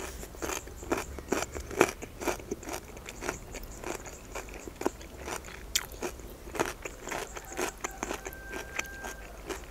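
Crunchy chewing of crisp fresh cucumber with the mouth closed, the crunches coming about twice a second.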